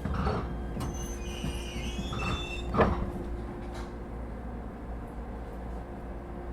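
Sliding passenger doors of an ET127 series electric train working, with a sliding rattle and squeak and a single loud thud about three seconds in as a door shuts, over the steady hum of the stationary train's equipment.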